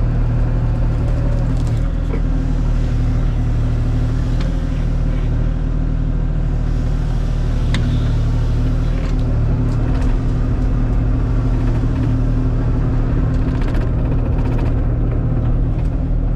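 Kubota KX040 mini excavator's diesel engine running steadily at working revs, with a few sharp knocks scattered through it as it clears downed trees and brush.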